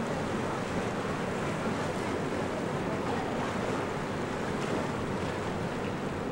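Steady roar of rushing water, with wind on the microphone.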